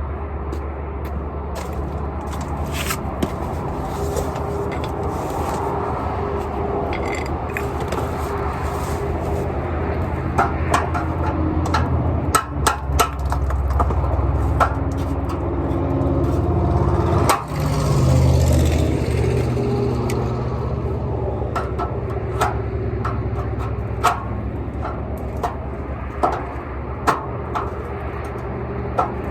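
Power tool cutting through a metal exhaust clamp band, a steady mechanical drone with scattered scraping clicks, briefly dipping about two-thirds of the way through.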